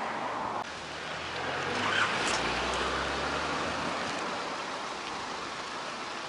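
Street traffic: a car passes by, its engine and tyre noise swelling about two seconds in and then fading, over steady outdoor noise.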